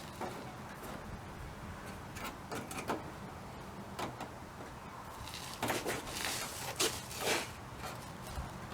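Scattered light knocks and scrapes of sheet-metal hand work, with no power tool running, busiest a little past the middle.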